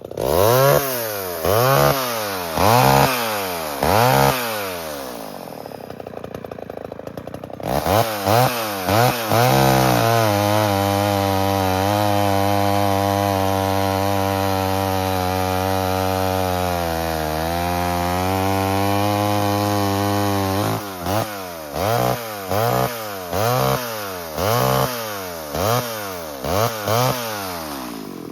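1978 Homelite XL12 two-stroke chainsaw revved in quick blips, dropping back to idle briefly. It is then held at high speed for about ten seconds while cutting firewood, its pitch sagging for a moment under load. After that it is blipped about eight more times.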